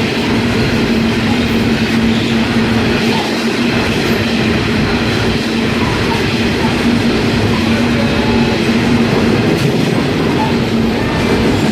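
Freight train hauled by 81 class diesel locomotives rolling past at track level: a loud, steady rumble of wagons and wheels on the rails, with a steady hum that fades out near the end.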